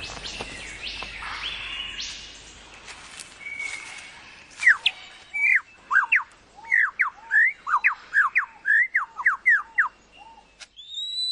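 Superb lyrebird singing: a rapid run of loud, sharp, sweeping whistled notes starts about four seconds in, with fainter forest sounds and bird calls before it.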